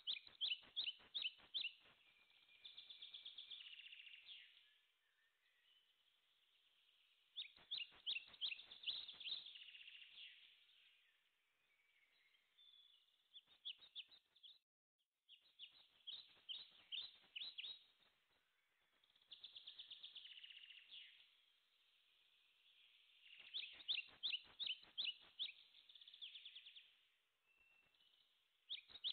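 Faint songbird singing: repeated phrases of quick, high chirps and trills every few seconds, with short pauses between them.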